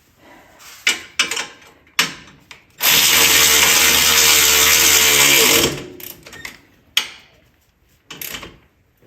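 An electric power tool's motor runs for about three seconds and then winds down, falling in pitch as it stops. Before and after it come a few sharp clicks and knocks of tools and parts being handled.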